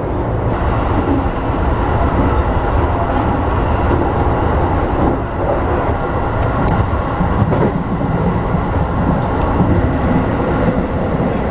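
Electric commuter train running along the track, heard from on board: a steady rumble of wheels on rail.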